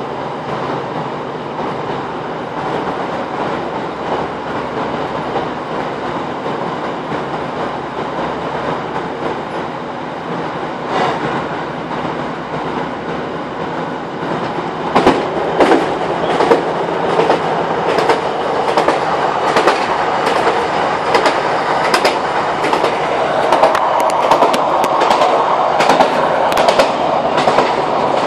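Class 156 Super Sprinter diesel multiple unit running at speed, heard from inside the carriage as a steady rumble. From about halfway it gets louder, with wheels clicking over rail joints in quick repeated strikes.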